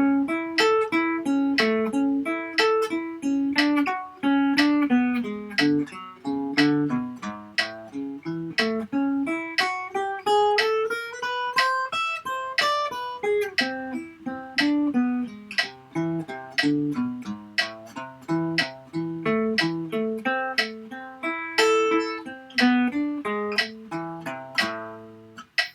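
Guitar picking a slow melody in 6/8, one plucked note after another. About a third of the way in, a run climbs steadily higher in pitch and then comes back down.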